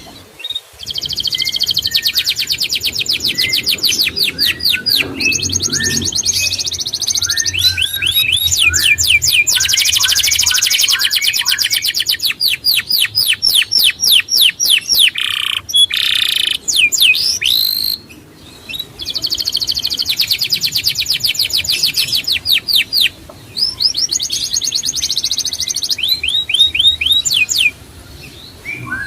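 A songbird singing fast trills of high, sharply falling notes, in phrases a few seconds long separated by short pauses.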